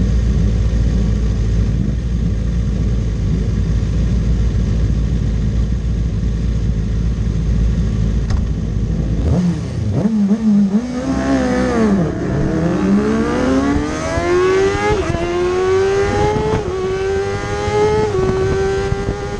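Superbike racing motorcycle engine: a steady low rumble, then about nine seconds in it revs and accelerates hard, the pitch wavering briefly before climbing steadily, with two upshifts near the end where the pitch drops and climbs again.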